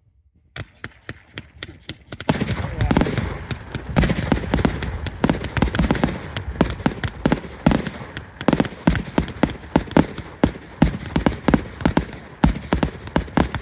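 Fireworks display: a rapid barrage of firework bangs with constant crackling between them, a few scattered pops at first, then much denser and louder about two seconds in.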